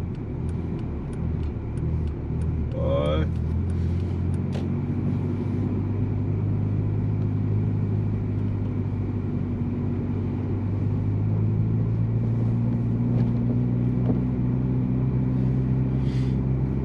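Big-turbo Volkswagen Jetta driving, heard from inside the cabin: a steady engine and road drone whose pitch climbs slowly through the second half as the car picks up speed. A light, regular ticking runs through the first few seconds.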